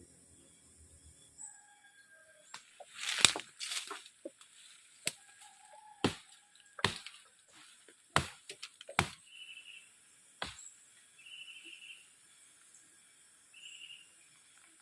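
A series of about a dozen irregular sharp snaps and clicks, spread over several seconds, the loudest a few seconds in, with a few faint high chirps between them.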